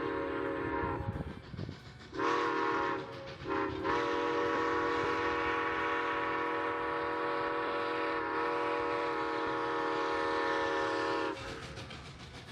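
Steam whistle of 1917 Baldwin 2-8-0 locomotive No. 81 blowing the grade-crossing signal: a long blast ending about a second in, a shorter blast, a brief toot, then a long held blast of about eight seconds that cuts off near the end. The running train rumbles underneath.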